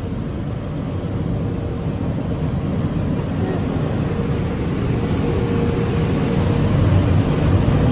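Automatic car wash equipment running around the car, heard from inside the cabin: a steady low rumble that slowly grows louder, with a faint steady hum.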